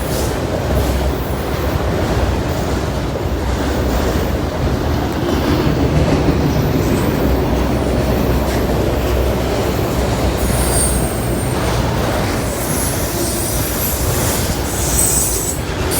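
CSX freight train's cars rolling past with a steady heavy rumble and wheel clatter. Thin high wheel squeals come in during the second half.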